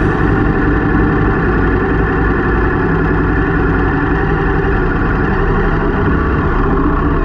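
Yamaha Ténéré 700's parallel-twin engine running steadily at an even engine speed.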